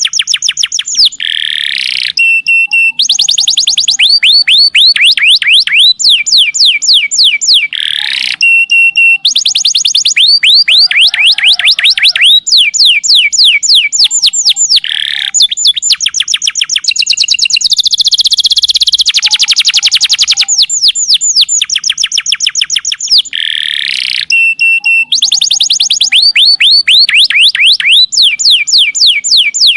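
Domestic canary singing a long continuous song of fast trills: runs of rapidly repeated high sweeping notes, with short buzzy and held notes between the runs.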